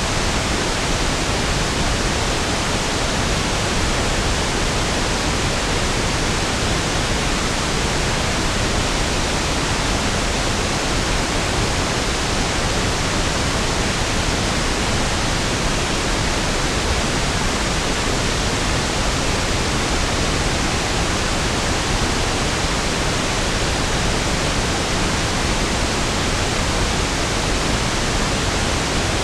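Pink noise (1/f noise): a steady, even hiss with equal energy per octave, fuller and lower than white noise, unchanging throughout.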